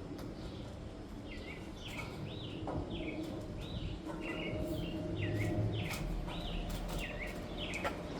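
A small songbird chirping over and over: short swooping calls, about two a second, starting about a second in. A few sharp clicks and knocks from parts being handled come over a low background rumble.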